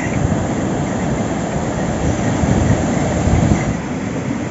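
Steady low rumbling noise that swells slightly a little past the middle, with no clear tones in it.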